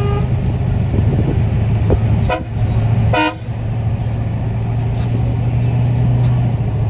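Vehicle engines running with a steady low rumble, with short car-horn toots at the start and twice more, about two and a half and three seconds in.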